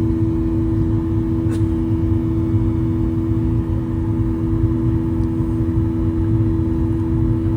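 Airliner cabin noise in flight: a steady low rumble of the engines and airflow with a constant droning hum.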